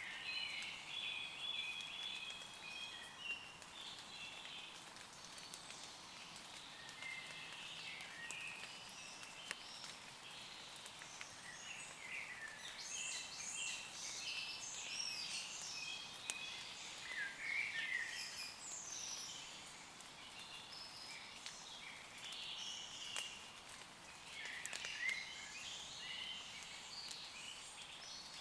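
Several woodland birds singing and chirping in quick, overlapping phrases, over a faint steady hiss of light rain on leaves with scattered drop ticks.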